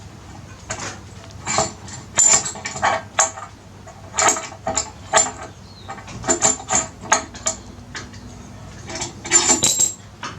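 Irregular metallic clinks and clanks of a motorcycle scissor jack and its steel handle being worked, metal knocking and ringing against metal.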